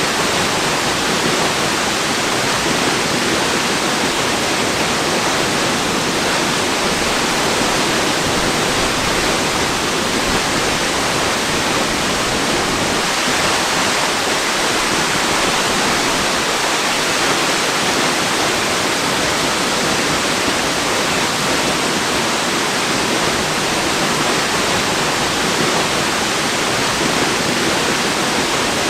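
Waterfall: falling water making a steady, even rush of noise that never changes.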